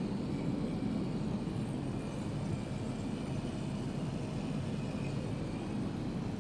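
Steady low rumble of an Airbus A380 airliner in flight, heard inside the passenger cabin.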